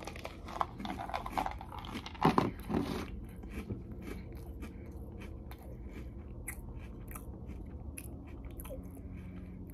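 A person chewing crunchy Magic Spoon cocoa protein cereal, with the louder crunches in the first three seconds and fainter chewing after.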